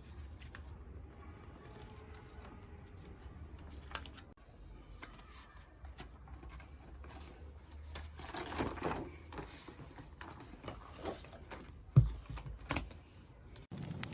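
Scattered small clicks, taps and rustles of objects being handled, with one sharp thump about twelve seconds in.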